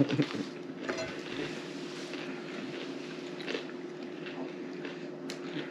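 Quiet eating sounds: chewing and small mouth noises, over a steady low hum.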